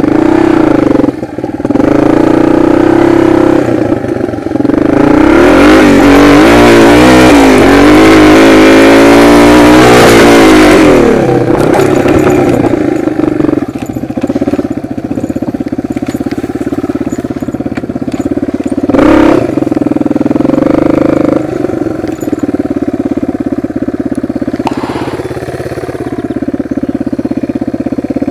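Dirt bike's single-cylinder four-stroke engine heard up close from the rider's seat, revved hard and wavering from about five to eleven seconds in, then running lower and steadier. A single thud comes about two-thirds of the way through.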